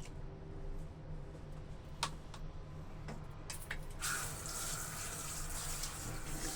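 Water running from a tap, starting about four seconds in, after a few light clicks and knocks.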